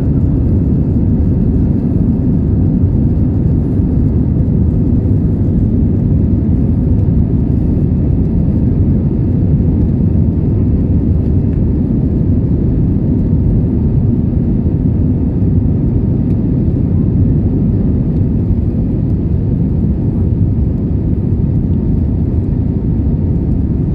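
Steady engine and airflow noise heard inside the cabin of an Airbus A320-200: an even, low rumble that holds at one level throughout.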